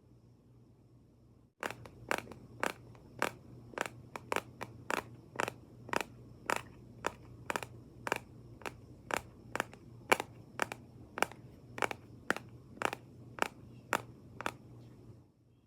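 ASMR tapping: sharp, evenly paced taps a little under twice a second, starting about a second and a half in and stopping near the end, over a low steady hum.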